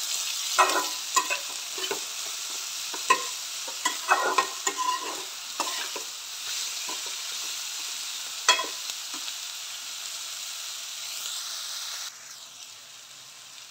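Shredded cabbage, carrot, onion and capsicum frying and sizzling steadily in a steel kadai, stirred with a metal spatula that scrapes and clinks against the pan now and then. The sizzle gets quieter near the end.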